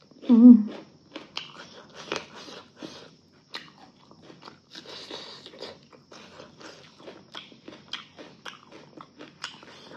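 A person chewing food with many short, irregular mouth clicks. About half a second in there is a brief hummed "mm" with a wavering pitch, the loudest sound.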